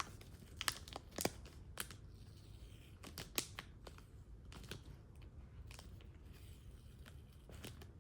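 Plastic comic-book bag crinkling and sticky tape being picked and torn at while the bag is handled: a faint, irregular scatter of crackles and clicks.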